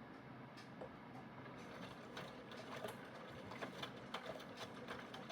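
Aidoo 1 kg mini washing machine running mid-wash, its heater on: a steady low hum, then from about a second and a half in, rapid irregular mechanical clicking and ticking that grows louder.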